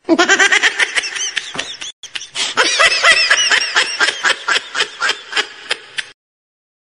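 High-pitched laughter sound effect: a rapid run of short laughing syllables, about five a second, with a brief break about two seconds in, cutting off suddenly after about six seconds.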